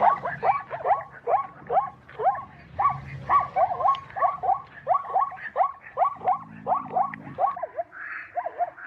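Zebra calling: a fast, steady series of short barking calls, about three a second, each rising and then dropping in pitch.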